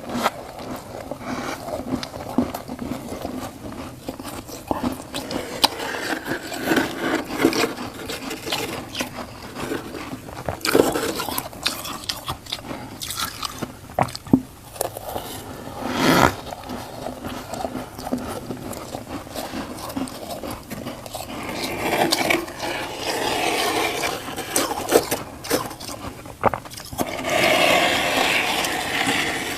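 Crunchy frost being bitten and chewed close to the microphone: a run of sharp, irregular crunches and crackles, with louder stretches of crunching toward the end.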